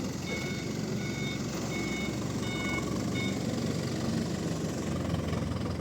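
A vehicle's reversing alarm beeping, about once every 0.7 seconds, which stops a little after three seconds in, over a steady low engine rumble.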